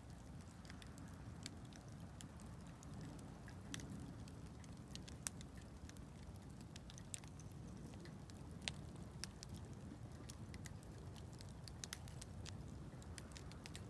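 Wood campfire crackling: scattered sharp pops and snaps, some louder than others, over a steady low rumble.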